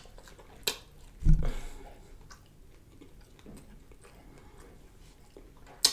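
Close-up mouth sounds of someone chewing fried catfish fillet, with a few sharp smacks and one low thump about a second in.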